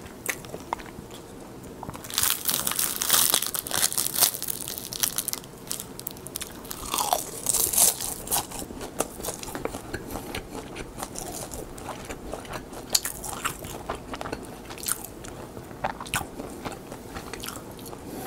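Crisp seasoned laver (gim) sheets crunching and crackling as they are bitten and chewed close to the microphone. There are heavy bursts of crunching about two to four seconds in and again near the eighth second, then lighter crackles.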